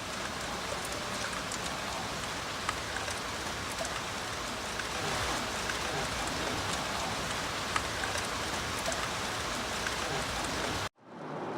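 Steady rain falling, with individual drops ticking here and there; it cuts off abruptly near the end.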